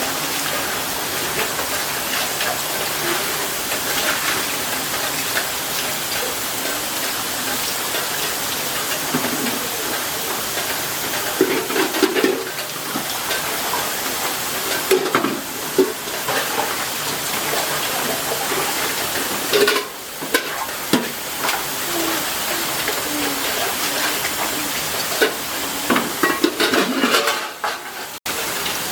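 Steady rain with a constant hiss, and now and then the clink and clatter of dishes and metal utensils being handled.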